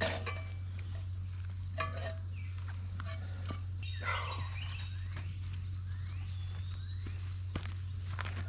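Steady chorus of crickets or other insects, with a steady low hum underneath and a few light clicks and knocks.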